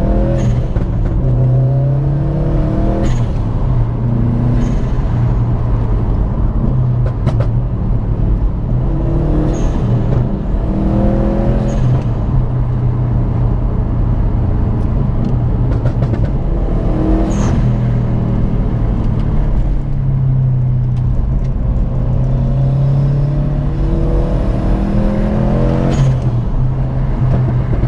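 Subaru WRX STI's turbocharged flat-four engine and road noise heard inside the cabin while driving, the engine note rising and falling with the throttle. A few brief sharp sounds stand out now and then.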